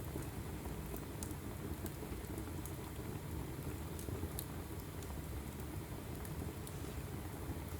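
Wood logs burning in a fireplace: a steady low rush of flame with scattered sharp crackles and pops.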